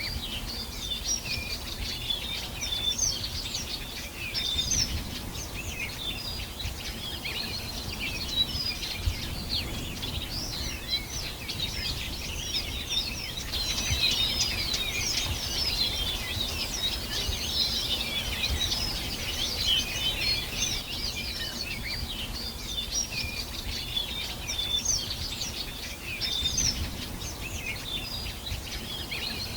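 A dense chorus of many small birds chirping and trilling at once, with overlapping high, quick calls throughout, over a steady low rumble.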